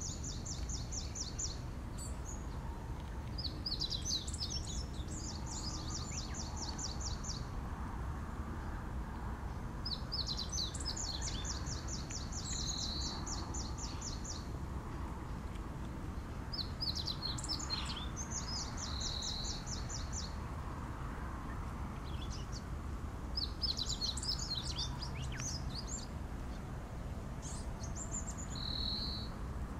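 A small songbird singing a fast, high trill again and again, each phrase about two to three seconds long with a few seconds between, over a steady low rumble.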